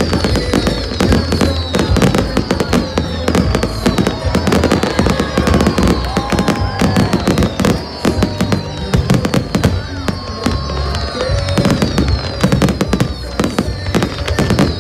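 Fireworks display in a dense barrage, many bangs and crackles in quick succession.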